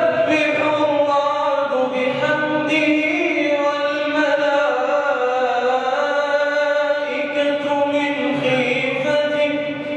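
A man reciting the Quran in a melodic, chanted style, carrying one long unbroken phrase with long held notes that slowly bend in pitch.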